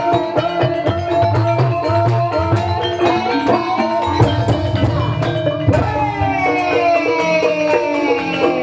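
Gamelan accompaniment for an ebeg hobby-horse dance: struck pitched metallophone notes ring over steady drum strokes at a driving beat. About six seconds in, a long, slowly falling pitched line enters over the ensemble.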